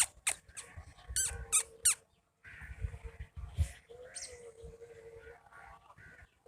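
Quick, sharp high-pitched chirps, several in a row in the first two seconds, then a brief drop-out and quieter background with one more chirp.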